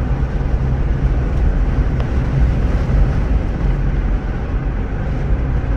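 Steady road and engine noise of a car being driven, heard from inside the vehicle.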